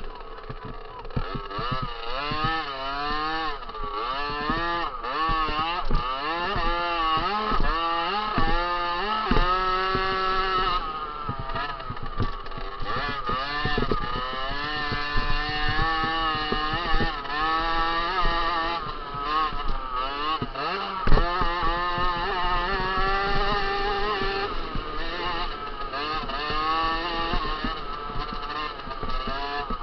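Small 50 cc two-stroke motocross bike engine revving, its pitch rising sharply and dropping back again and again as the throttle is worked. A sharp knock stands out about two-thirds of the way through.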